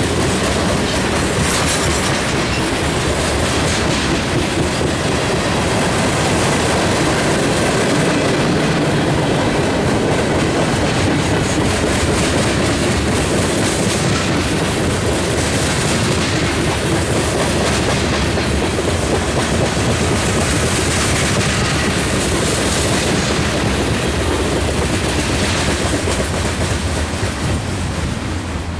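Long manifest freight train's cars rolling past at speed, a steady rumble with wheels clicking over the rail joints.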